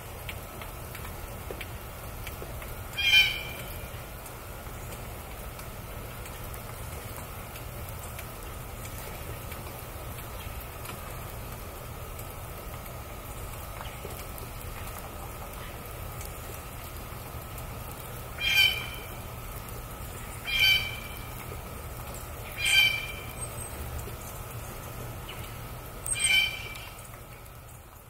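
A bird calling loudly, one short call with a stacked, pitched tone about three seconds in, then four more such calls about two seconds apart from about eighteen seconds in, over a steady low rumble.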